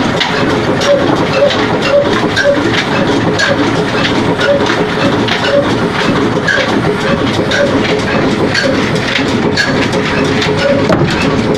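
Old 22 hp diesel engine running steadily with a slow, regular beat of about two strokes a second.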